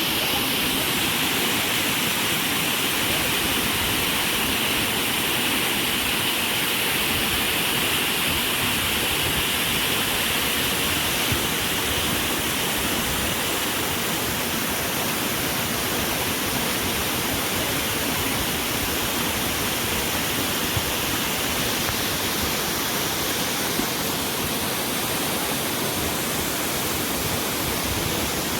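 Waterfall: water falling and rushing, an even, unbroken hiss at a constant level.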